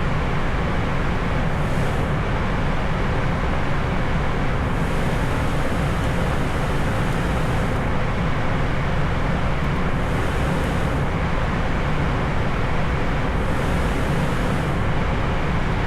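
Airliner cockpit noise in climb: a steady rush of airflow and engine noise, with a fainter high hiss that comes and goes several times.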